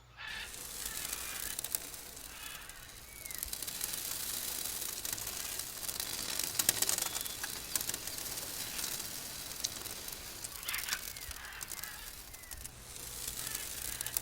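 Jungle ambience sound effect: a steady, dense hiss with short chirps of birds and scattered rustling, cutting in suddenly at the start.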